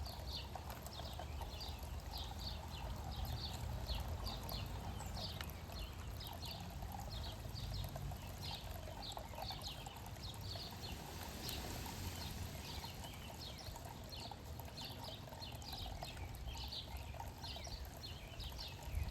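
Small birds chirping: short, high chirps repeated two or three times a second, over a steady low outdoor rumble.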